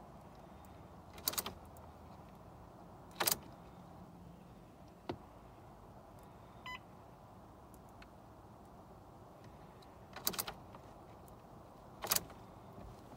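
Ford Fiesta's controls and fittings being handled before a cold start: five sharp clicks and knocks spread out with long gaps, and one short electronic beep from the car about halfway through. The engine is not yet running.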